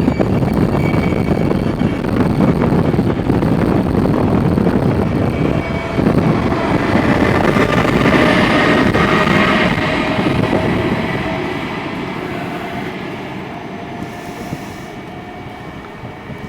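A train moving past on the tracks with a dense rumble of wheels on rail, loudest for about the first ten seconds, then fading away.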